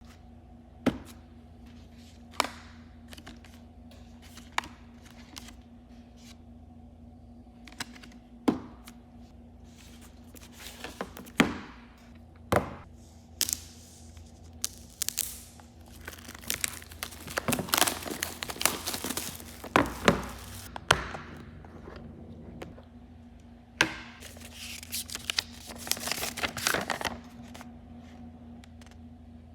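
Packaging being handled and opened: separate sharp knocks and clicks, then two stretches of crinkling and tearing, about halfway through and again near the end.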